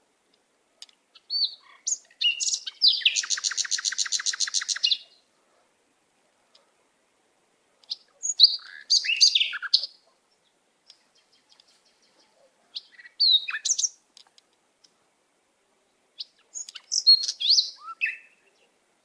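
Songbirds singing: a fast rattling trill lasting about two seconds, then short phrases of high notes that slide up and down every few seconds, with quiet gaps between.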